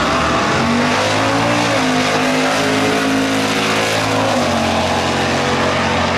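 Two Chevrolet Chevelle muscle cars launching off the drag-strip starting line and accelerating hard side by side. The engine note climbs, drops at a gear shift about two seconds in, and drops again at a second shift about four seconds in.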